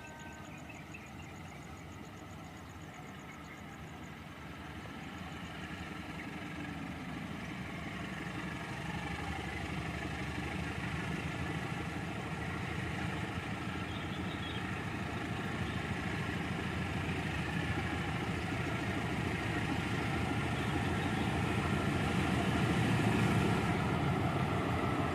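A train approaching at a crawl, its engine running and growing steadily louder as it draws near.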